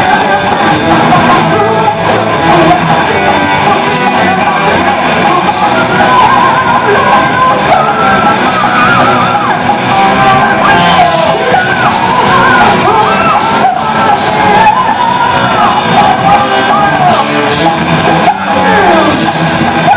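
Heavy/speed metal band playing: guitars, bass and drums in a dense, continuous wall of sound, with a high yelled vocal line riding over it from about eight seconds in, echoing as in a large hall.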